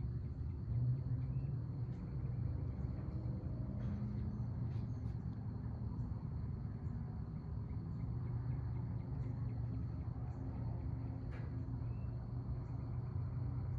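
Insects trilling steadily at one high pitch over a steady low rumble, with a few faint ticks.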